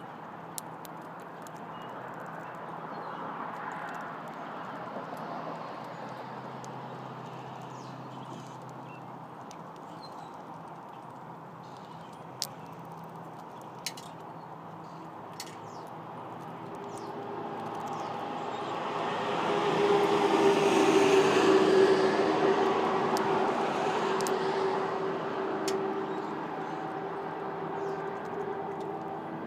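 A vehicle passing by: a low engine hum that swells to its loudest about two-thirds of the way through and then fades. A few sharp, isolated clicks come in the first half.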